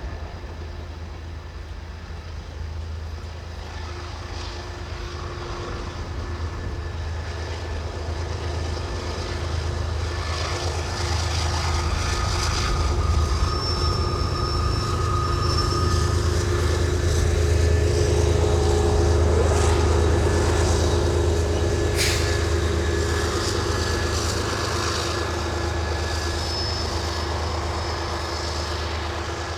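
A train passing, its low rumble building to a peak about two-thirds of the way through and then easing off, with a few faint steady tones over it and a single sharp click near the peak.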